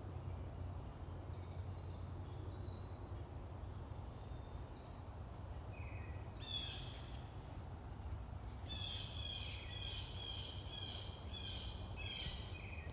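Songbirds singing in woodland over a steady low background rumble. Faint, high, thin notes come first. About halfway in, a nearer bird starts repeating a short clear whistled phrase about twice a second.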